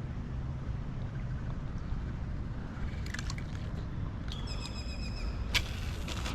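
Outdoor ambience with a steady low rumble, a short bird call about four and a half seconds in, and a single sharp click just after it.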